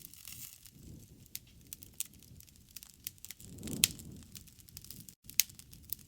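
Wood fire crackling: irregular sharp pops and snaps over a low rumble of burning, with one louder pop and a swell of the rumble a little under four seconds in.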